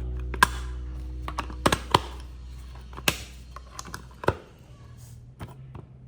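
Irregular sharp clicks and taps, about a dozen, the loudest about half a second, two seconds and three seconds in, over the fading tail of background music.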